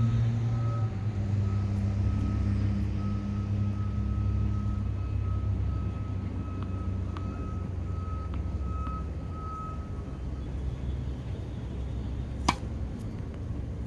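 A vehicle engine running steadily, with a single-pitch high beep repeating until about ten seconds in. Near the end comes one sharp crack of a tennis racket striking a ball.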